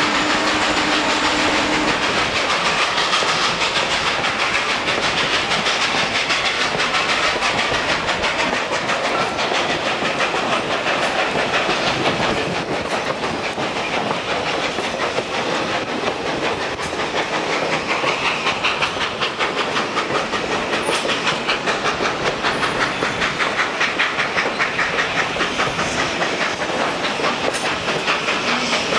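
A train in motion behind steam locomotive 734, a 2-8-0 Consolidation. A steady rush of wheel and rail noise, turning into a fast, even clicking pulse through the second half.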